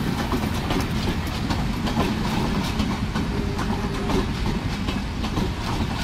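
Passenger train running on the rails: a steady heavy rumble with the wheels clicking and clattering over rail joints.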